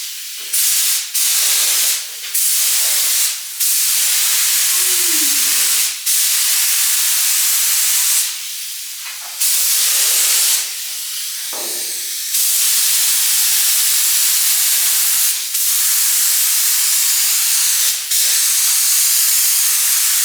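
Paint being sprayed onto a car body: a loud hiss in repeated passes of one to a few seconds, each cut off sharply, with short breaks between them.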